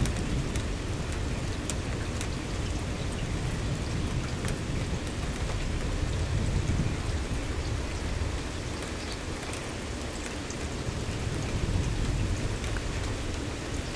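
Steady rain falling, with many sharp drop ticks against an even hiss. A low rumble swells and fades a few times.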